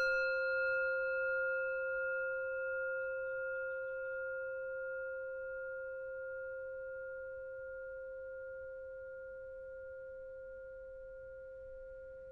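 A singing bowl, struck once just before, ringing on with a clear low tone and higher overtones that slowly fade with a gentle wavering.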